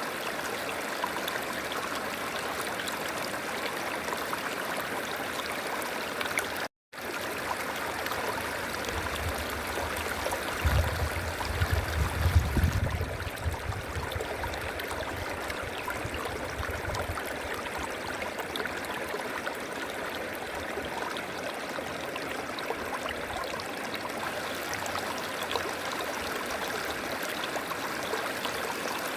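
River water flowing steadily over rocks, cut out for a split second about a quarter of the way in. Midway a low rumble swells under the water for several seconds, the loudest part of the sound.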